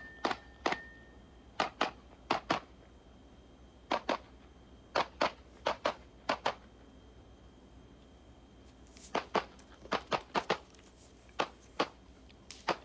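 Gen 5 Glock 19 9mm pistol fired in quick pairs, about twenty shots in groups separated by short pauses, with a brief steady beep at the very start.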